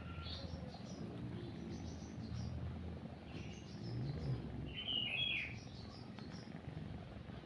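Small birds chirping in short scattered calls, the loudest a quick chirp about five seconds in, over a cat's steady low purring.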